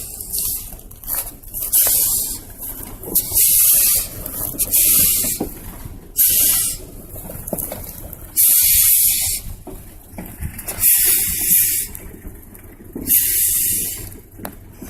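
Repeated loud bursts of hissing, each about half a second to a second long, over a steady low rumble.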